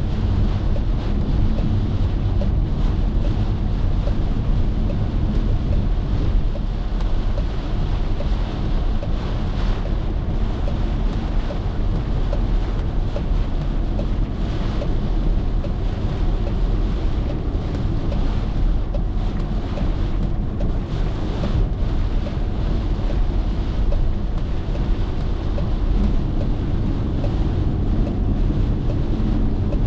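Car driving on the road: a steady low rumble of road and wind noise.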